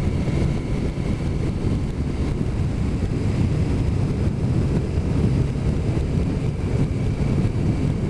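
Steady rumble of a motorcycle on the move: engine and road noise mixed with wind on the microphone.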